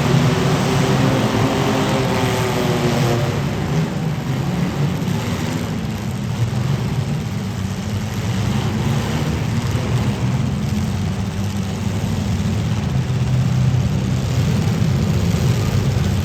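Demolition derby cars' engines running loud and steady, with a wavering engine note in the first three seconds.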